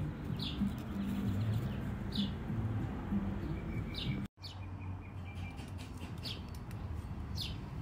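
A bird calling with four short, downward-sliding chirps a second or two apart, over a steady low hum. The sound drops out for an instant about four seconds in.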